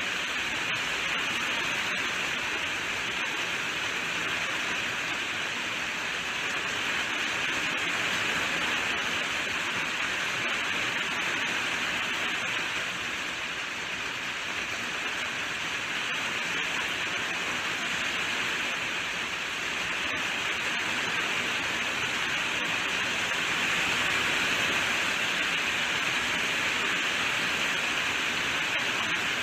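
Steady rainfall: a continuous, even hiss of rain falling, with no separate drips or thunder standing out.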